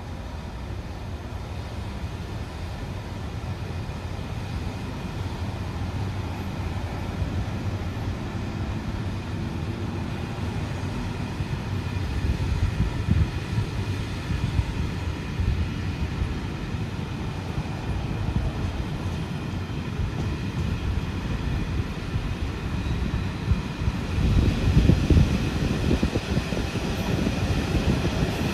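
Czech passenger train, an A149 coach hauled by a ČD Class 754 diesel locomotive, rolling out of a station over the rails and growing steadily louder as it gathers speed, heard through the open coach window. Heavier rumbling comes about twelve seconds in and again about twenty-four seconds in.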